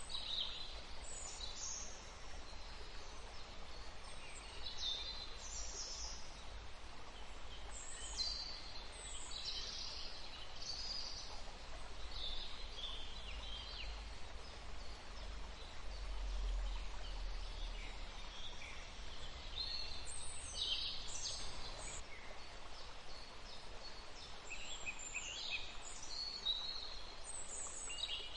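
Several songbirds chirping and singing in overlapping short high calls and trills, over a faint steady background hiss and low rumble.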